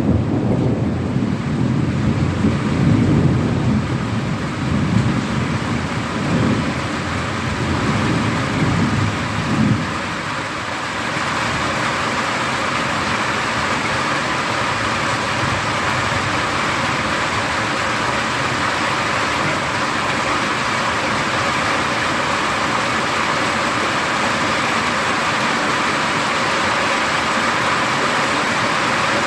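Thunder rumbling heavily and dying away about ten seconds in, over heavy rain that then goes on as a steady hiss.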